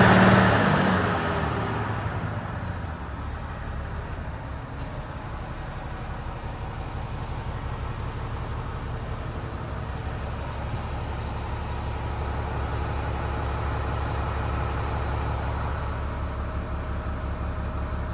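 Volvo FM 450 truck's 13-litre six-cylinder diesel engine dropping back from a rev in the first couple of seconds, then idling steadily.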